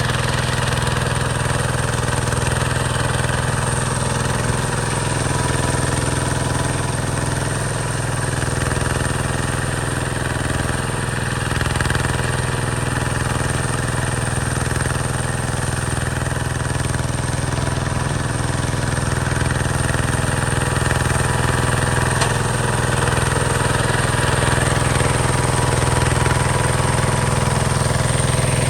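Hinota HG Gold 155 DI tractor's diesel engine running steadily, with an even mid-pitched engine note that grows a little louder near the end.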